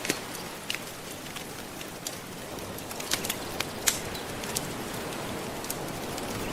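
Wood fire crackling with scattered sharp pops, the loudest about four seconds in, over a steady hiss of soft ocean waves.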